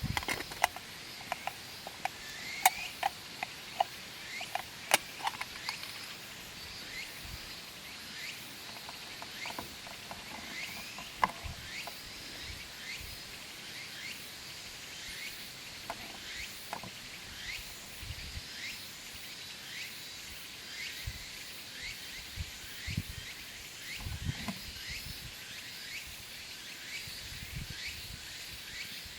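Twigs burning in a small titanium wood stove, crackling with sharp pops that are frequent in the first ten seconds or so and sparser after. Short chirps repeat steadily in the background.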